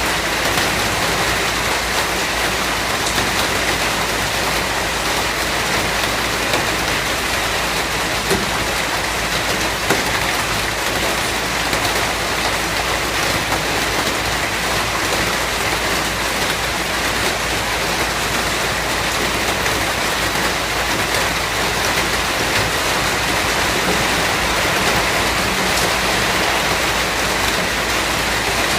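Steady rain falling on a surface: an even, unbroken hiss with faint scattered drop taps.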